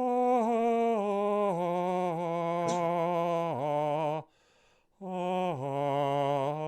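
A man singing a melodic line on a sustained 'ah' vowel, holding notes with vibrato and stepping between pitches. About four seconds in he breaks off for a short breath, then resumes.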